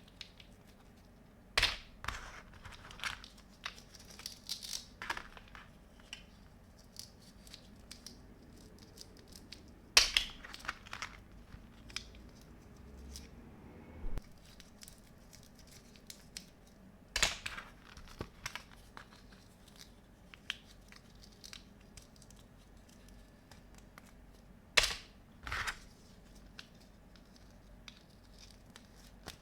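Plastic toy kitchen pieces being handled: scattered light clicks and rustles, with a few louder sharp rips or clacks spread through.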